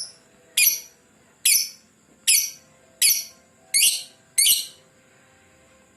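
Lovebird giving six short, shrill calls, evenly spaced a little under a second apart, each dropping slightly in pitch, then falling silent for the last second or so.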